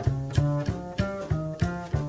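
Jazz backing track in swing: an upright bass walks about three notes a second under drum cymbals and higher pitched chord or melody notes.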